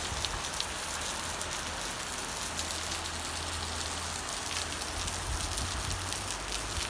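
Heavy monsoon rain falling steadily, with many separate drop impacts ticking through the hiss and a low rumble underneath.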